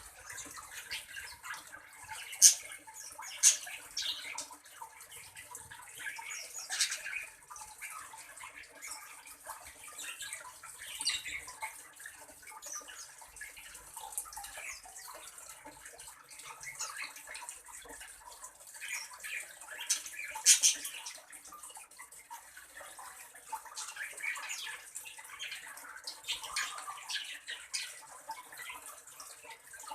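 Aviary ambience: a steady watery trickle with scattered sharp bird chirps and clicks, the loudest a few sharp calls about two and a half, three and a half and twenty seconds in.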